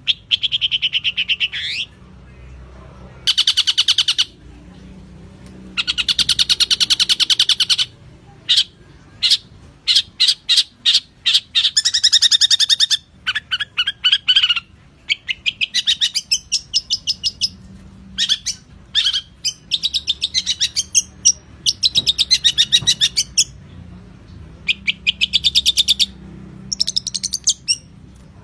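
Long-tailed shrike (cendet) singing: fast, high chattering phrases of one to two seconds at a time, broken by short pauses and strings of quick separate notes.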